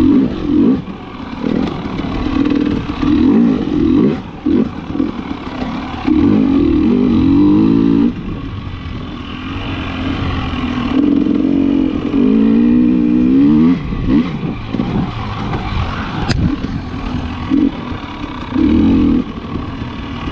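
KTM 300 XC-W TPI two-stroke single revving up and down as the dirt bike is ridden through deep sand, the pitch climbing and dropping with each burst of throttle. A single sharp click about sixteen seconds in.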